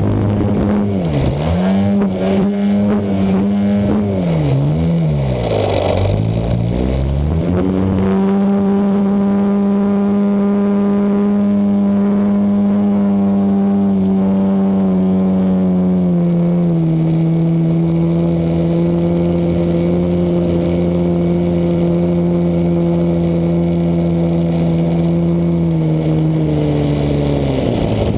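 Desert Aircraft DA100 twin-cylinder two-stroke gas engine of an RC aerobatic plane, heard from an onboard camera. The engine note drops sharply and climbs back three times in the first few seconds as the throttle is chopped and opened. It then holds steady, eases slightly about halfway, and falls away near the end.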